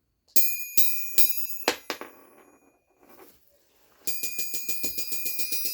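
Steel ball bearing dropped from high onto the face of a Peddinghaus forged steel anvil, striking with a bright ring and bouncing several times within the first two seconds. About four seconds in, there is a fast run of small, quick bounces, each ringing with the same bell-like tones.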